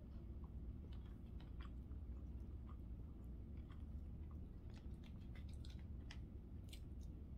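A person chewing a mouthful of roast and vegetables, with small scattered clicks that come more often in the second half, over a low steady hum.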